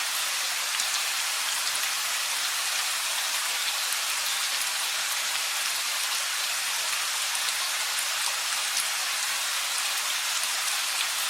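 Steady rain falling: an even hiss with faint scattered drop ticks, at a constant level.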